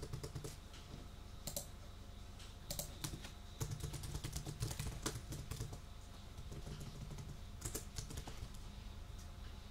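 Typing on a computer keyboard: uneven runs of key clicks, with a few louder keystrokes standing out.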